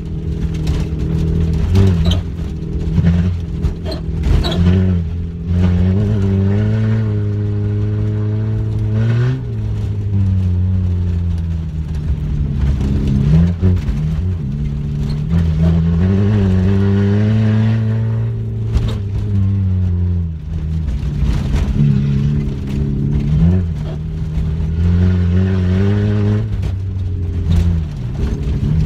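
Peugeot 106 engine driven hard on a dirt track, heard from inside the cabin: the revs climb and drop repeatedly as the driver works the throttle and gears, with scattered short knocks.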